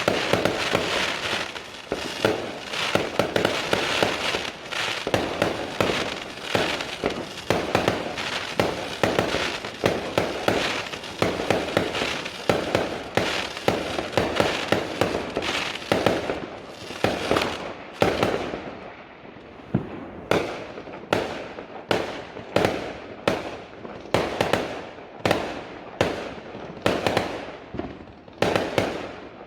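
Fireworks going off: a dense, rapid run of bangs and crackling, which about two-thirds of the way through gives way to single sharp reports about once a second, each trailing off.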